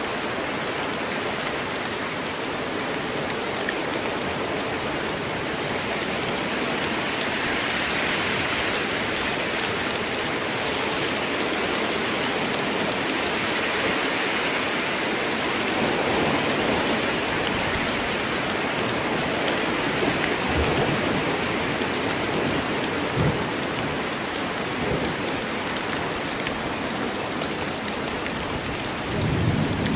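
Steady rain falling in a forest, an even hiss of drops on leaves and ground, with a few brief low thumps in the second half and a short low rumble near the end.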